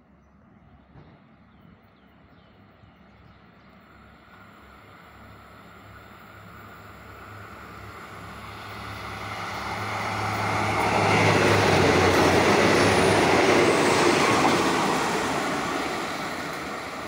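Diesel express train approaching and passing through the station without stopping. A low engine drone grows steadily louder, swells into the loud rush of engine and wheels about eleven seconds in, and then starts to fade as the train runs away.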